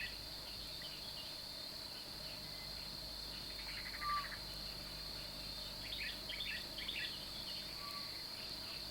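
Steady high-pitched insect chirring, with a few faint short chirps and scratchy clicks about six to seven seconds in.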